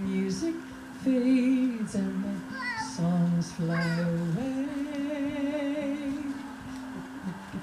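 Several voices singing and humming long held notes together, shifting from chord to chord, with a high warbling, gliding line that comes and goes above them.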